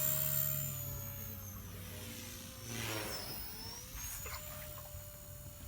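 Blade Fusion 180 RC helicopter's small brushless electric motor and rotors whining steadily in flight, the pitch wavering slightly with throttle and getting fainter over the first two seconds.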